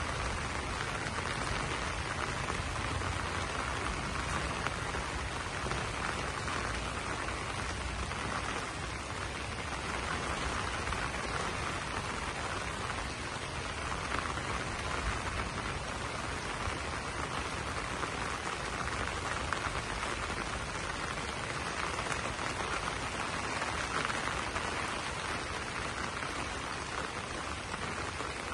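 Steady rain falling on banana leaves: a dense, even wash of drops striking the broad leaves, swelling and easing slightly without a break.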